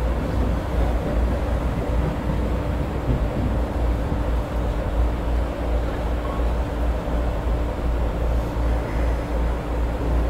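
Running noise inside a JR E217-series electric commuter train approaching a station: a steady low rumble of wheels and running gear with an even hum.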